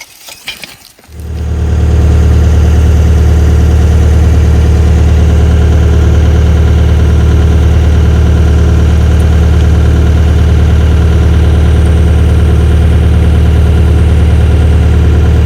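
Komatsu excavator's diesel engine starting about a second in, then running steadily with a deep, even drone.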